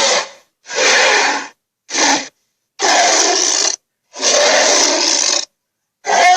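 A person making vocal creature sound effects: a run of about five short, harsh, noisy bursts, each broken off into dead silence before the next.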